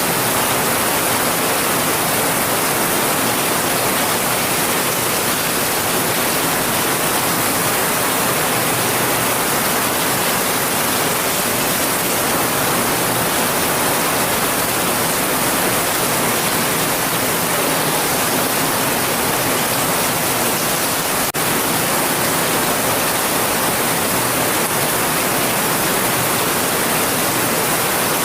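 Heavy rain falling as a steady, even hiss with no thunder, with one faint click about three-quarters of the way through.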